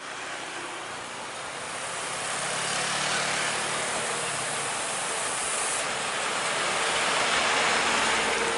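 A road vehicle running: an even rushing noise that slowly grows louder, with a faint engine hum partway through.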